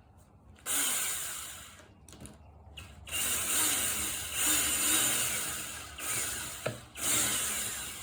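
Power drill driving a socket on a carburetor mounting screw, in short runs: a brief burst, then longer runs with short pauses. The socket is the wrong size (a 5/16 where a 9/32 is needed), so it does not grip the screw well.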